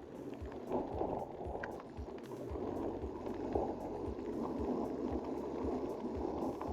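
Electric mountain bike rolling downhill on a tarmac lane: a steady rumble of tyres and wind on the bike-mounted microphone, with irregular low buffets.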